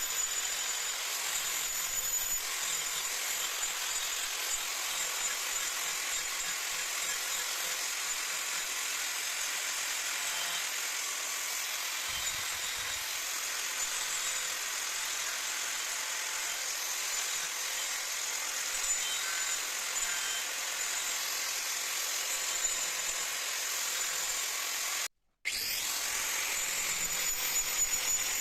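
A high-speed power tool working wood, with a steady high whine over a hissy grinding noise. It cuts out abruptly near the end and comes back with a brief rising whine.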